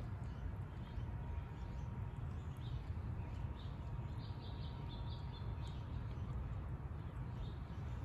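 Faint, scattered high chirps of small birds, bunched together about four to five seconds in, over a steady low rumble.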